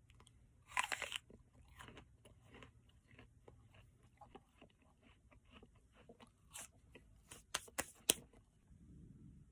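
A crisp bite into a whole apple about a second in, then repeated crunchy chewing, with a few sharper crunches near the end.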